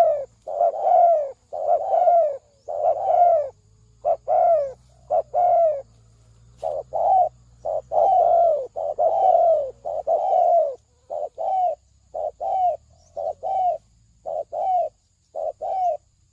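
Spotted dove cooing: a steady series of short coo notes, each falling in pitch, given in runs of two to four with short pauses between them.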